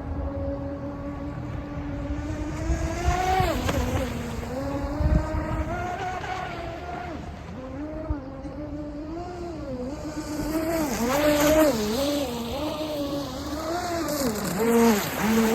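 Electric motor of a UDI022 RC speedboat whining as it runs on the water, its pitch rising and falling repeatedly with the throttle, with quicker swings in the second half.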